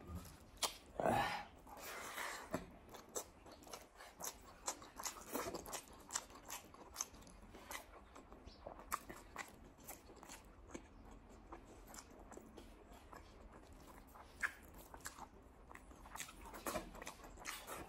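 Close-up chewing of rice and arbi-leaf curry eaten by hand, made up of many short mouth clicks and smacks, with louder bursts of eating noise about a second in and again near the end.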